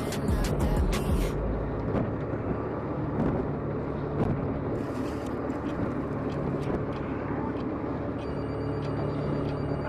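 Fishing boat's engine running steadily, with a few clicks and knocks in the first second or so.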